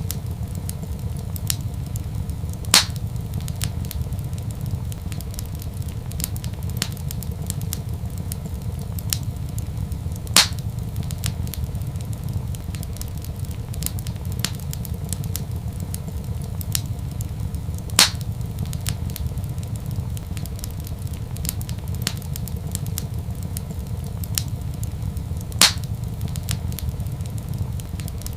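Wood fire crackling in a fireplace: many small snaps over a steady low rumble. Four louder pops come at even spacing, about seven and a half seconds apart.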